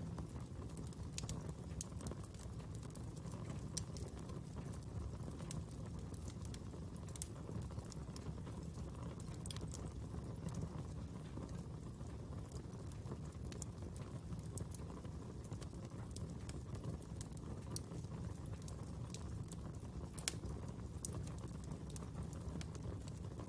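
Wood fire burning, with a steady low rush and irregular sharp crackles and pops.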